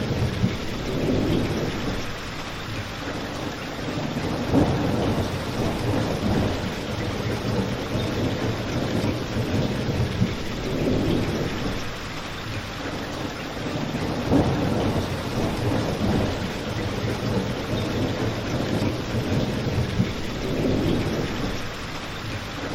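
Steady rain falling, with a low rumble that swells and fades underneath and a few sharp pops from a crackling fireplace.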